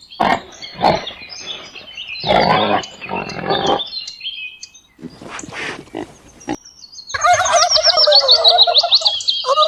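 A string of separate animal calls: several short harsh calls and noisy grunting squeals, then, about seven seconds in, a turkey starts gobbling, a loud rapid warbling call.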